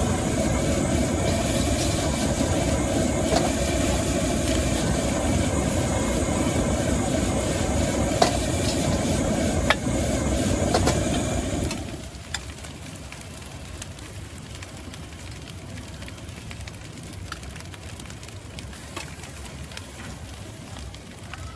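Wok stir-frying over a gas wok burner: a loud, steady rushing noise with a few sharp clicks of a metal spatula against the wok. About halfway through the rushing stops abruptly and only a much quieter background remains.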